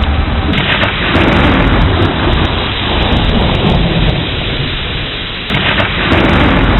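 Heavy rain falling steadily under rolling thunder. Two sudden thunderclaps come about five seconds apart, each dying away into a low rumble.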